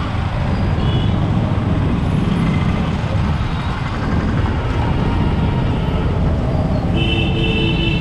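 Yamaha MT-15's single-cylinder engine running on the move, with heavy wind and road rumble on the helmet-level camera mic. A vehicle horn honks near the end.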